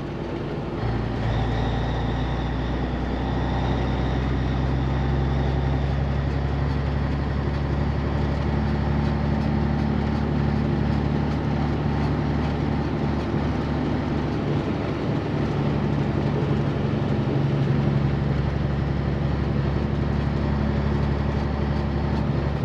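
Semi-truck diesel engine running steadily while driving, a low, even drone.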